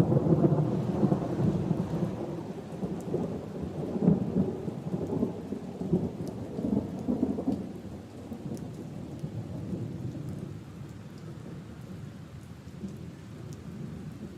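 Rolling thunder rumbling over steady rain, loudest at the start and dying away over the next several seconds, with a few sharp raindrop ticks.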